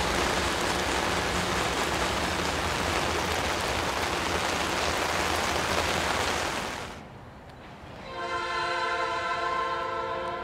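Freight cars of a passing train rolling by, a steady rushing noise that fades out about seven seconds in. About a second later a diesel locomotive's air horn sounds a steady multi-note chord and keeps sounding.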